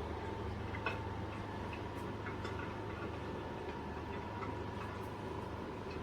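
Irregular faint crackling clicks over a steady hum: the simulated fire-crackling sound of a RICHFLAME Edward electric fireplace insert.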